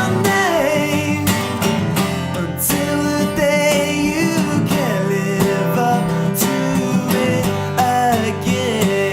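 Acoustic pop song: a steadily strummed acoustic guitar with a melody line gliding up and down in pitch over it.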